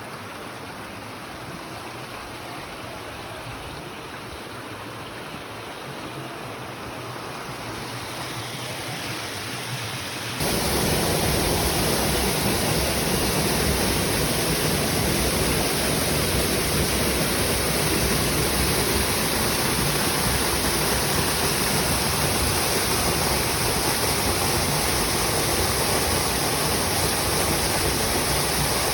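Mountain stream water rushing steadily over rocks. About ten seconds in it becomes abruptly louder and fuller.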